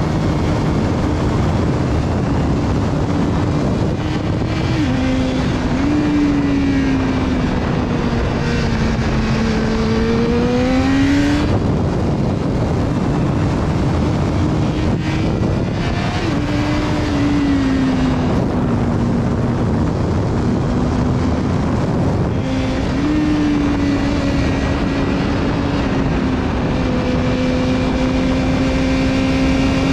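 BMW S1000RR inline-four engine heard from on board, its note sinking and rising as the bike rides through bends. It climbs sharply about eleven seconds in and again a little past twenty seconds, under a steady rush of wind noise.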